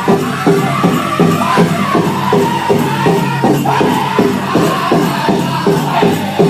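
Pow wow drum group singing a men's chicken dance song over a steady, fast beat on the big drum, about four strokes a second.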